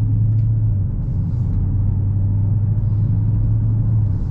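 Steady low rumble of a 2022 Dodge Challenger Hellcat's 6.2-litre supercharged V8 and tyres while cruising at a constant pace, heard inside the cabin.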